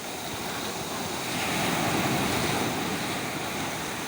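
Sea waves breaking and washing on the shore: a surge of surf builds about a second in, peaks, and eases off near the end.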